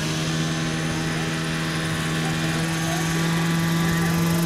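Jet turbine of a large scale RC helicopter running with a steady low hum and a high whine, growing slightly louder toward the end.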